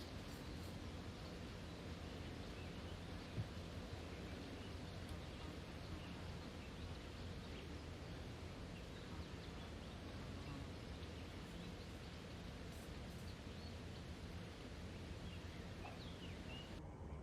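Faint, steady room noise with a low hum. There is one soft click about three seconds in and a few faint, high, short chirps near the end.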